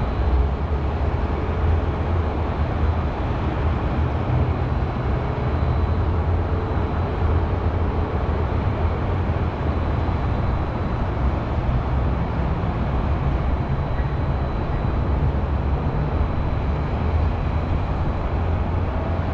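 Steady city ambience dominated by a low, even rumble of distant highway traffic, with a faint thin high tone above it.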